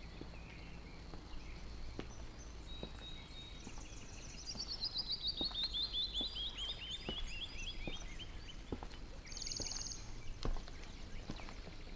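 A songbird sings a long trill of quick, evenly spaced notes that slides steadily down in pitch, then a short buzzy high phrase near the end. Soft, regular footsteps on stone tiles tap underneath.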